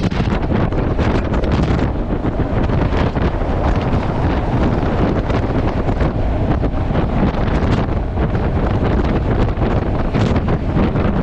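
Heavy wind buffeting on a GoPro 8 Black's built-in microphone while riding a motorcycle at speed. It is a steady, dense rumble and roar with no pauses, heaviest in the low end, and it covers any engine sound.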